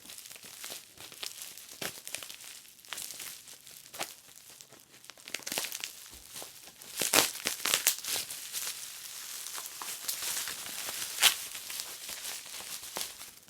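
Packaging being torn and crumpled open by hand: irregular crinkling and ripping, loudest about seven seconds in and again near eleven seconds.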